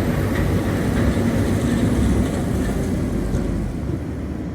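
Scania lorry's diesel engine running, heard as a steady low rumble that eases off a little after two seconds in.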